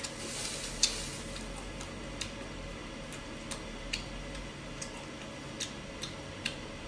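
Close-miked chewing of grilled beef short rib: irregular sharp, wet mouth clicks, roughly one or two a second, over a steady low hum.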